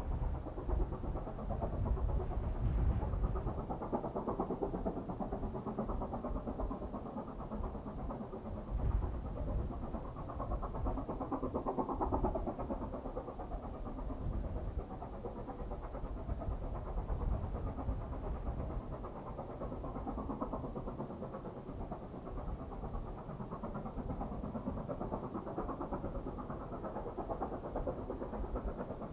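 Steady low mechanical rumble of a train running, with no distinct beat or sharp sounds.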